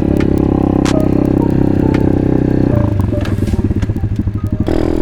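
Apollo pit bike engine held at steady high revs, dropping off to a lower, pulsing note about three seconds in, then picking up again near the end.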